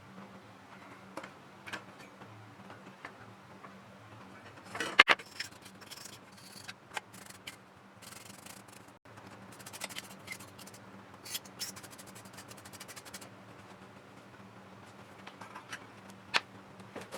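Scattered clicks, rubbing and scraping from hands and small tools working on console parts. The loudest cluster of clicks comes about five seconds in, with a low steady hum underneath.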